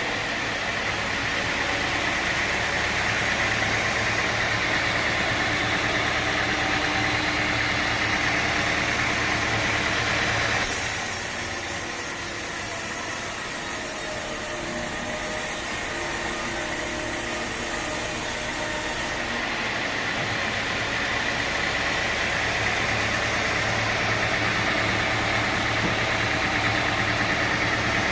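Sawmill machinery running steadily, an engine-driven hum with a higher whine above it. From about eleven seconds in, the low hum drops away and a high hiss takes over for several seconds, then the engine sound comes back.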